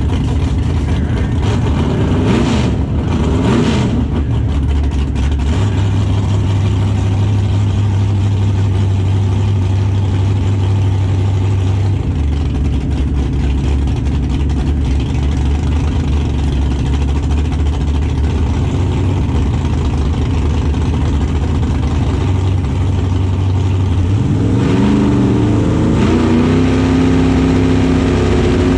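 Drag-race V8 engine running at a low, steady drone with short blips early on, then rising in pitch about three-quarters of the way through and holding at the higher speed.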